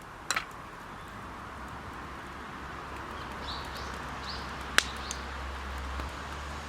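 Wood campfire crackling, with a few sharp pops over a steady hiss; the loudest pop comes a little before five seconds in. A few short bird chirps come in the middle.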